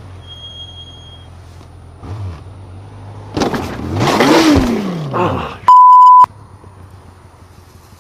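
A motorcycle engine runs steadily under a loud crash of about two seconds, a noisy burst with a pitch that rises and falls, beginning about three and a half seconds in. Right after it a half-second censor bleep, a single pure tone, covers a word.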